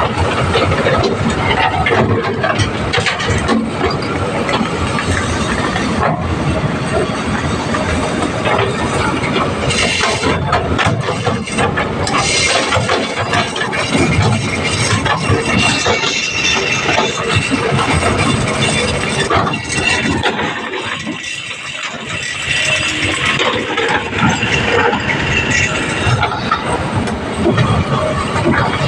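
Kobelco excavator running, its diesel engine sounding steadily under work, with frequent short metallic knocks throughout and a brief easing around two-thirds of the way in.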